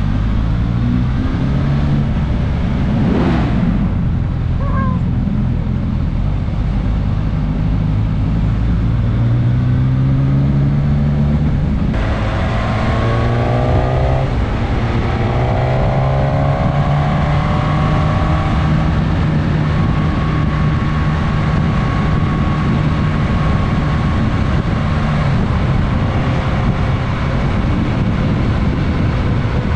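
Suzuki GSX-S 1000S Katana's inline-four engine running under way, heard onboard with road and wind noise. About halfway through the revs rise twice in a row as it accelerates through the gears.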